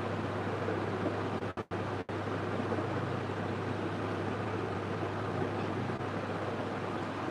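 Steady machine noise with a low hum, cut off twice for an instant about one and a half and two seconds in.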